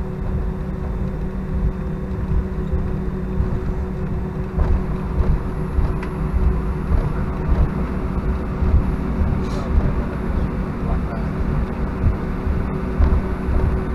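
Cabin noise inside an Airbus A319-131 in the climb: the steady drone of its IAE V2500 engines and the rush of air over the fuselage, with a steady low hum and a few light rattles.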